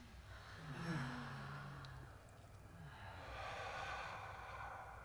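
A deep breath released with an audible sigh, its low voiced tone falling in pitch, followed about three seconds in by another long, breathy deep breath.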